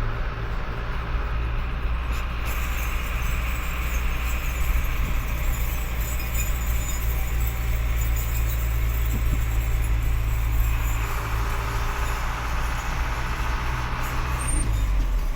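Truck engine running steadily under way, with road noise. Its low note drops a step near the end.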